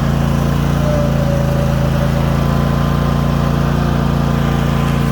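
Cub Cadet RZT zero-turn riding mower's Kohler Pro 25 V-twin engine running steadily.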